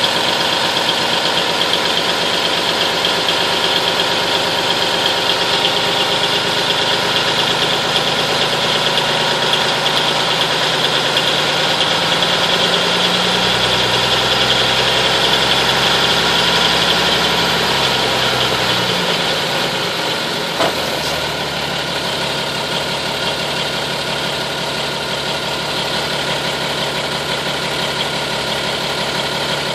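Cummins diesel of an M931 army truck idling while still cold, its air compressor building brake air pressure. Between about 12 and 19 seconds in it runs deeper and a little louder; about 20 seconds in comes a short sharp click, after which it settles a little quieter.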